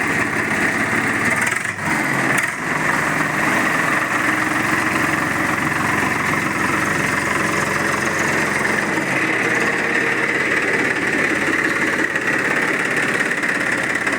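Swaraj 855 tractor's three-cylinder diesel engine idling steadily, freshly started after standing two months in the cold. The sound dips briefly twice about two seconds in.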